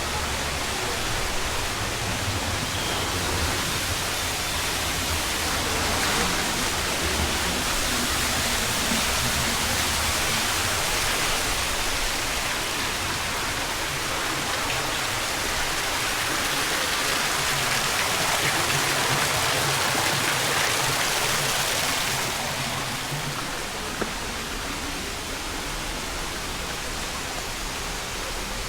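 Waterfall rushing, a steady dense roar of falling water that swells a little through the middle and eases back about three quarters of the way through.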